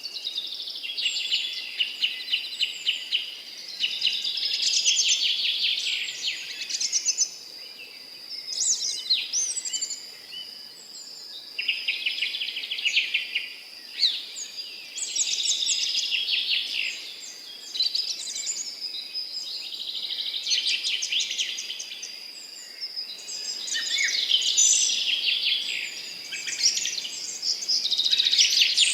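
Songbirds singing in a garden, several voices overlapping: quick, high chirping song phrases of a second or two follow one another with short pauses. A thin, steady high tone runs beneath the song.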